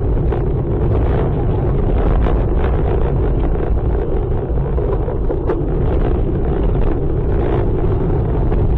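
Vehicle driving noise as picked up by a dashcam: a loud, steady low rumble with scattered clicks and rattles.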